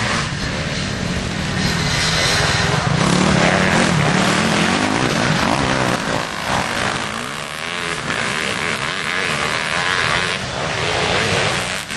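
Motocross motorcycles racing on the track, their engines revving up and down as they pass, loudest a few seconds in.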